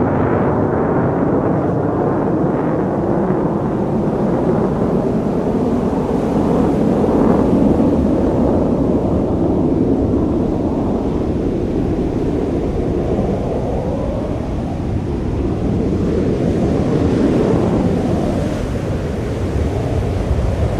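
Jet aircraft engine noise: a loud, continuous rumble, with a slow rise and fall in pitch in the second half.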